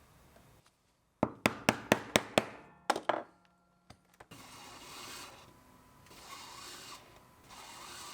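Leatherworking tools on water buffalo leather. First comes a quick run of about eight sharp knocks, about four a second, each ringing briefly. After a short pause come slow rubbing, rasping strokes that rise and fall about once a second, as in sanding a leather edge.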